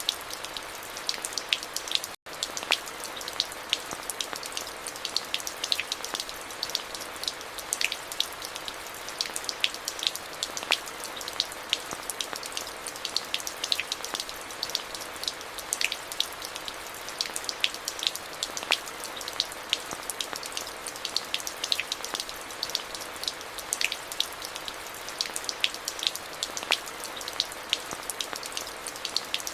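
Steady rain falling, with many distinct drops landing close by, each a sharp tick over the even hiss. There is a split-second gap in the sound about two seconds in.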